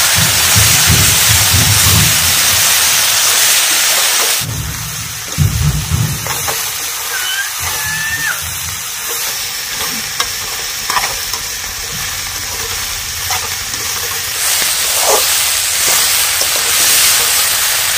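Sem bean pods sizzling as they stir-fry in oil in a steel kadhai, with a steel spatula scraping and turning them against the pan. The hiss shifts in level twice, about four and a half seconds in and again near the end.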